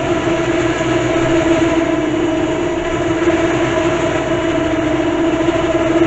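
A utility vehicle's electric winch motor running steadily with an even whine, paying out its cable.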